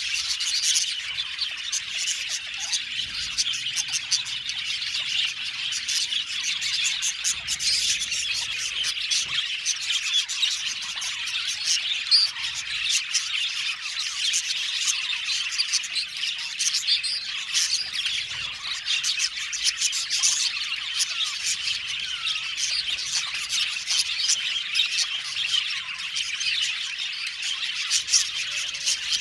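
A colony of budgerigars chirping, warbling and squawking together in a dense, continuous chatter.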